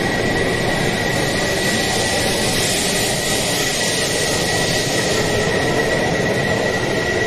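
E5 series Shinkansen pulling out of the station, its cars rushing steadily past the platform with a steady high-pitched whine throughout.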